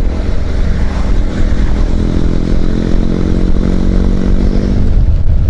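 Motorcycle riding along at steady speed: a steady engine note over a low rush of wind and road noise, with the engine note dropping away about five seconds in.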